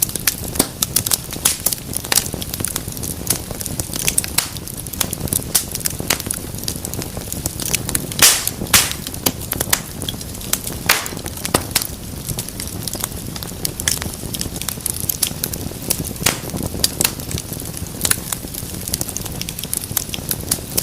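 Wood fire in a fireplace crackling steadily, with frequent sharp pops over a low rumble of flame; a few louder snaps about eight to eleven seconds in.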